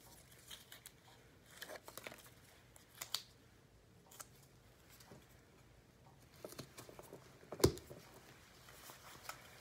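Faint handling sounds of medical tape and supplies while an IV dressing label is prepared: scattered small clicks and short rustles, with one sharper click about three-quarters of the way through.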